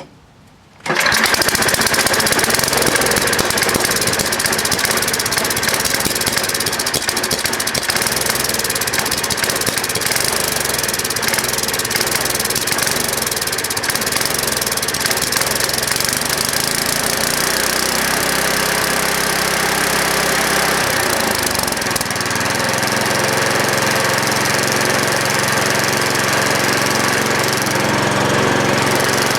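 A 7 hp Tecumseh single-cylinder small engine cold-starts about a second in and keeps running loudly. Its speed wavers up and down at first, then runs steadier after about twenty seconds, with the carburetor not yet adjusted.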